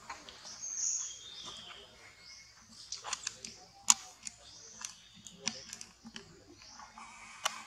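Birds chirping in short, repeated falling calls, with a few sharp clicks scattered through, the loudest about four seconds in.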